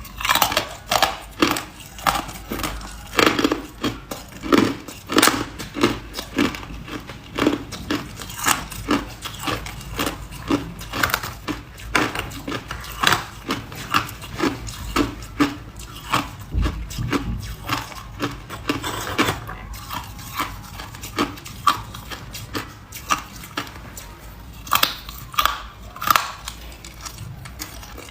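Ice being chewed and crunched between the teeth, bite after bite, about two crunches a second. The crunches turn softer for a few seconds past the middle, then get loud again.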